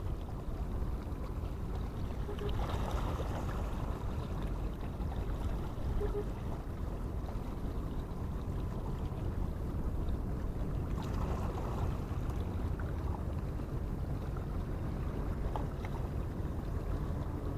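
Steady low rumble of harbour ambience, wind and water, with two brief louder rustling noises about three and eleven seconds in.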